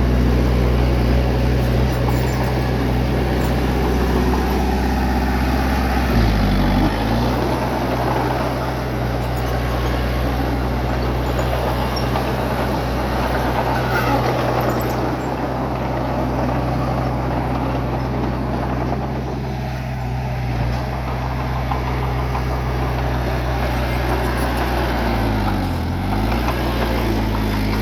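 Bulldozer's diesel engine running steadily at work. Its pitch dips briefly and recovers about six seconds in and again near the end.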